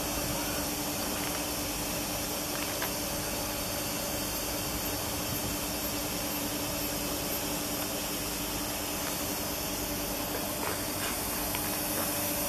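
Steady hiss with a low, even hum from an electric passenger train standing at the platform, its equipment running while at rest; a few faint clicks here and there.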